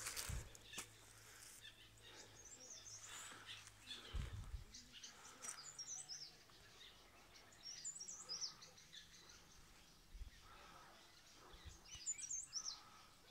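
Faint bird chirping outdoors: clusters of short, high, quickly gliding chirps every few seconds over a quiet background hum. A brief low thump comes about four seconds in.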